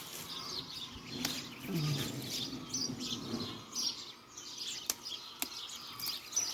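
Birds chirping repeatedly in the background, with a few sharp clicks now and then.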